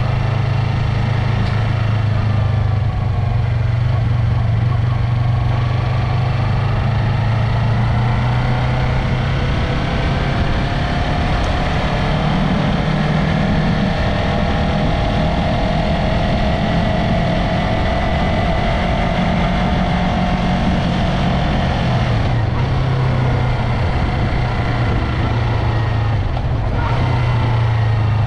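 Yamaha MT-03 motorcycle engine and exhaust running steadily, its pitch rising about twelve seconds in, held for a while, then dropping back about ten seconds later.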